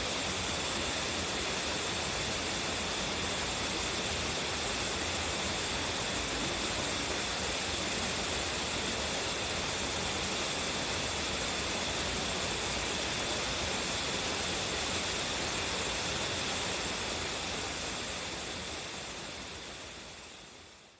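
Waterfall with a strong flow, a steady rush of falling water that fades out over the last few seconds.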